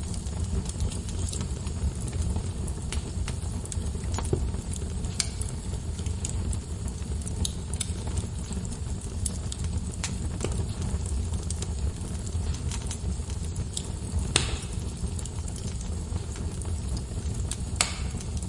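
Wood fire crackling in a fireplace: a steady low rumble of burning logs with scattered sharp pops and snaps, the loudest pop about fourteen seconds in.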